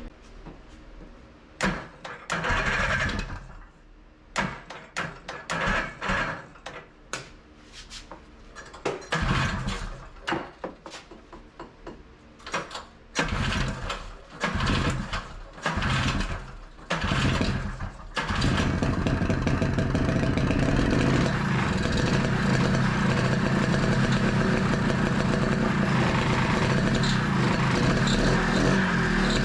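Rebuilt two-stroke engine of a 1982 Honda Odyssey FL250 firing in short, irregular bursts that die away between them, then catching about two-thirds of the way in and running steadily. It won't settle into an idle on its own.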